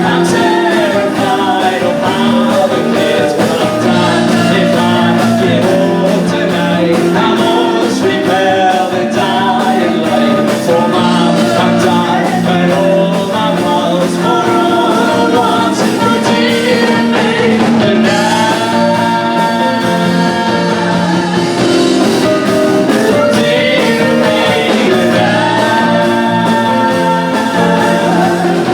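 Band playing a rock song with guitar and sung vocals, including long held vocal notes in the second half.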